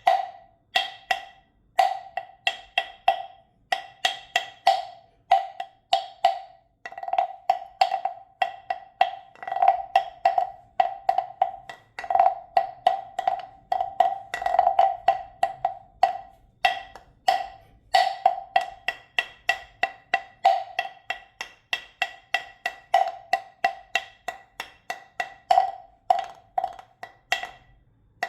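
Wind chime knocking in the wind: irregular clusters of hollow clacks, several a second, each ringing briefly at the same pitch with a higher overtone.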